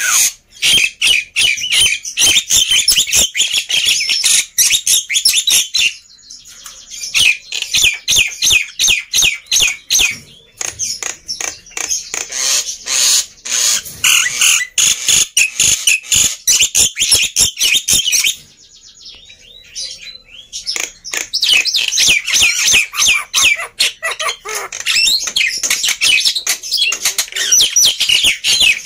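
Black-winged myna (jalak putih) singing loudly in long runs of rapid chattering whistles, harsh squawks and sharp clicks, with short breaks about six, ten and nineteen seconds in.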